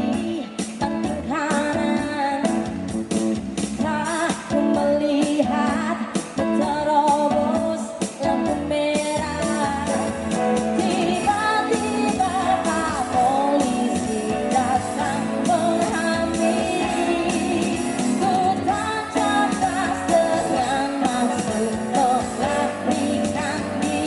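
Live pop band performance: a singer over guitar and drums.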